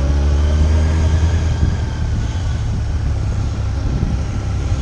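Motorcycle engine running at a steady pitch for about the first second and a half, then giving way to a rougher, noisier rumble.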